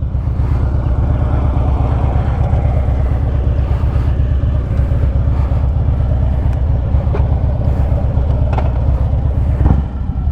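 2009 Harley-Davidson Street Glide's V-twin running under way through 4.5-inch Sharkroad slip-on mufflers, a steady deep exhaust note that dips briefly near the end before picking back up.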